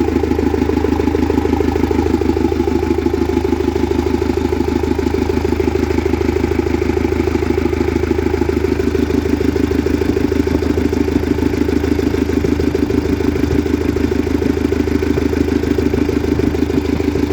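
Mitsubishi engine of a 3-ton Cat forklift idling steadily, with an even, rapid firing pulse and no change in speed.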